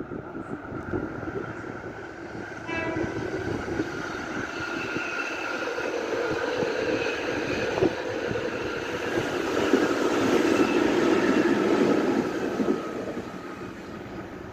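Electric commuter train approaching and running past on the track, its rumble and a steady whine building to a peak about ten seconds in, then fading. A brief high tone sounds near three seconds in.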